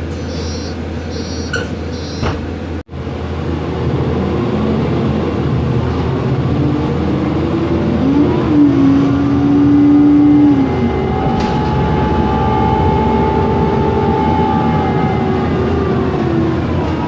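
Cabin sound of a Mercedes-Benz Conecto NGT city bus on the move: its natural-gas engine and cooling fan run steadily over road noise. About eight seconds in, the drivetrain pitch rises and holds for a few seconds as the bus pulls away, and a fainter higher whine follows. The sound cuts out for a moment about three seconds in.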